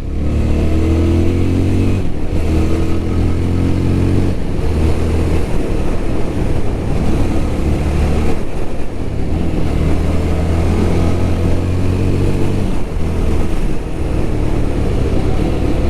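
Yezdi Scrambler's 334 cc single-cylinder engine under hard acceleration, heard from the moving motorcycle. The engine note climbs in pitch and drops back several times as the rider shifts up through the gears.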